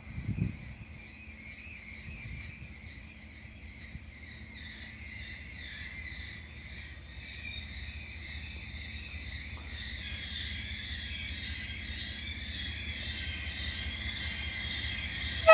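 Insects chirring steadily in a wavering high drone, over a low rumble that slowly grows louder as a D19E diesel locomotive approaches. A single thump comes about half a second in, and a loud locomotive horn blast begins right at the end.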